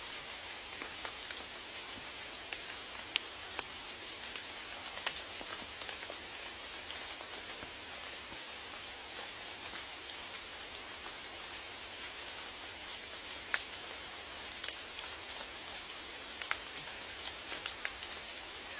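Steady rain: an even hiss with scattered close raindrops ticking on a surface, a few of them louder and sharper.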